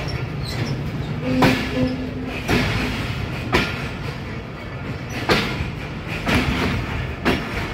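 Passenger train rolling at low speed, its wheels clacking over rail joints about once a second over a steady running rumble.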